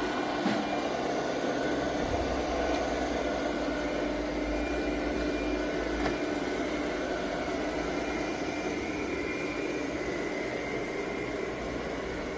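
Steady machine whir: an even rushing noise with a low hum and a few faint steady tones, easing off slightly toward the end.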